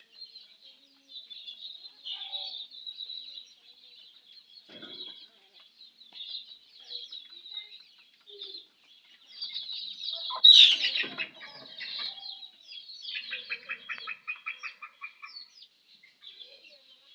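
Baby chicks peeping continuously, with hens clucking among them. A loud call about ten seconds in, and a rapid run of repeated clucks a few seconds later.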